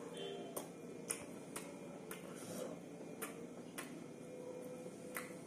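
Wet mouth clicks and smacks of someone chewing a mouthful of rice and beef curry, sharp single clicks coming irregularly about once every half second to second, over a faint steady hum.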